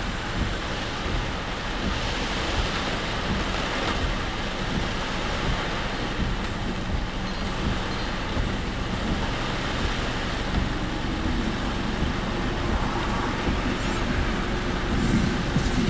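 Car driving on rain-soaked roads in typhoon rain and wind, heard from inside the car: a steady mix of tyre hiss on the wet road, low engine and road rumble, and rain on the car.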